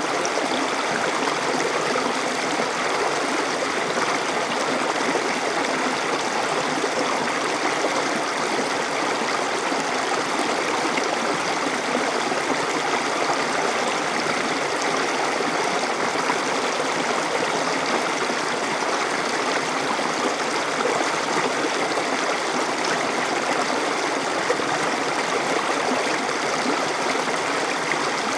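Small stream flowing over stones, a steady rushing and burbling of water without pause.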